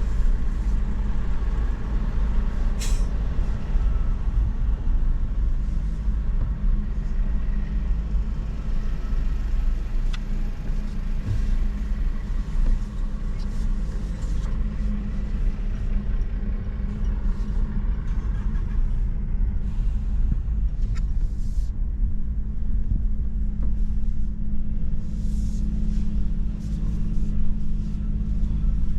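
Steady low engine rumble with a faint hiss, heard from inside a moving vehicle or vessel. A single sharp click sounds about three seconds in.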